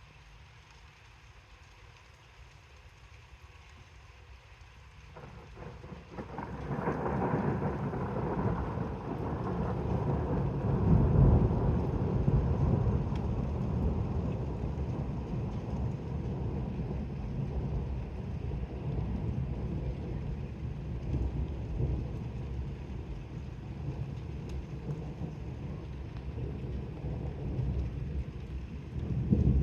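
A long roll of thunder from a weak thunderstorm. After a quiet start it swells in about five seconds in and peaks a few seconds later. It then rumbles on, slowly fading, and swells again near the end.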